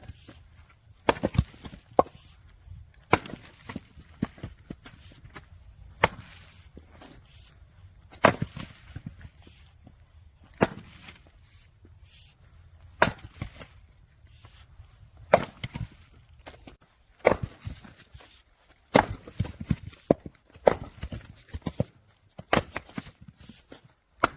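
Firewood being split: a sharp crack of wood splitting about every two seconds, each followed by a short clatter of smaller knocks as the pieces fall.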